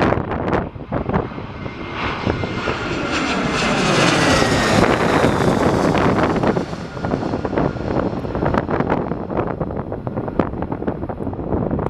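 Airbus A320's jet engines passing by on landing, the noise building to a peak about four to five seconds in with its whine falling in pitch as the plane goes past. Strong gusting wind buffets the microphone throughout.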